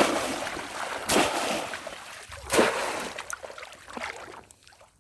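Water splashing three times, about a second or so apart, each splash trailing off, then the sound dies away near the end.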